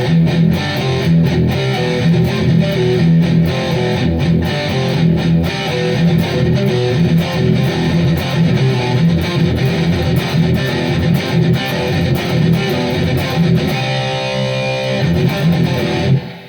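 Gibson Les Paul electric guitar playing heavy metal riffs in a fast, chugging rhythm, ending on a held chord that cuts off suddenly near the end.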